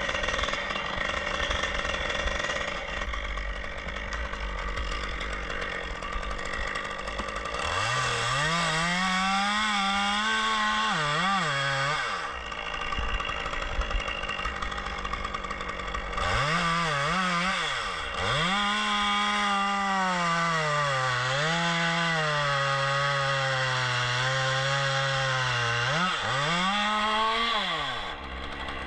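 Two-stroke chainsaw running at low speed, then revved up to full speed twice for long stretches. Its pitch sags and wavers as the chain bites into wood, and it is revved again briefly near the end.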